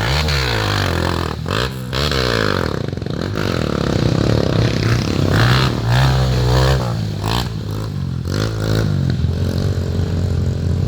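Off-road trail motorcycle engines running loudly, blipped several times so the pitch jumps up and falls back, with a steadier engine note between the blips.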